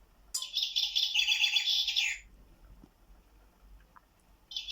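Bird clock's recorded chaffinch song striking the hour, played through the clock's small speaker: one rapid high phrase of about two seconds, and a second one starting near the end.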